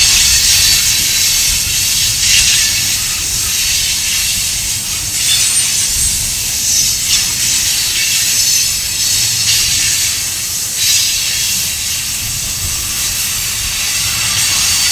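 Railroad tank cars of a passing freight train rolling by: steady wheel-on-rail noise with a loud hiss and a low rumble, swelling every couple of seconds.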